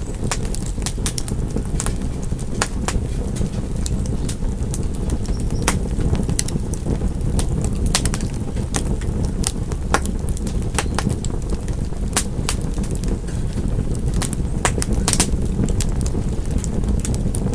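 Fire in a fireplace crackling: a steady low rumble under frequent irregular sharp crackles and pops, with a few louder pops scattered through.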